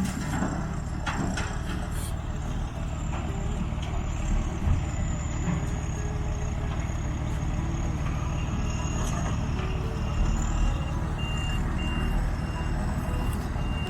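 Heavy diesel equipment running steadily while loading creek gravel, with a few sharp knocks near the start. Near the end a reversing alarm beeps at an even pace.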